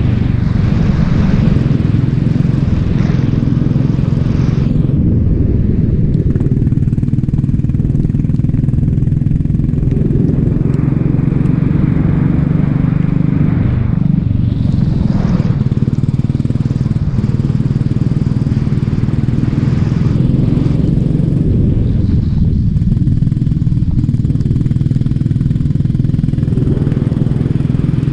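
Racing kart engine running hard and steady, with a hiss that swells and fades several times over it.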